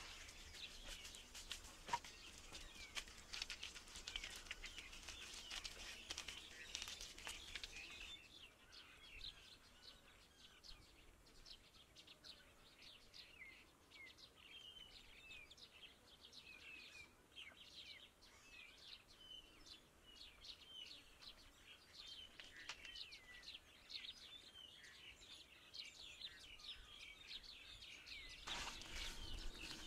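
Birds chirping faintly: many short, quick chirps repeated over and over. Over the first several seconds and again near the end, a busier layer of clicks and chirping sits on top.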